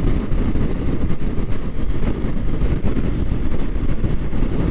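Steady rush of wind buffeting the microphone over the drone of a Kawasaki Ninja 400's parallel-twin engine and road noise as the motorcycle rides on at speed.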